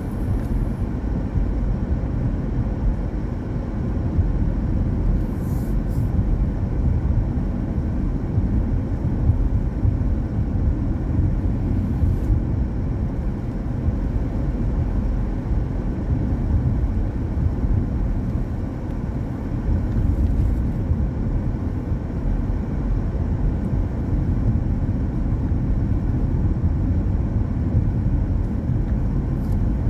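Car driving, a steady low rumble of engine and tyre noise on the road, with a few faint high ticks now and then.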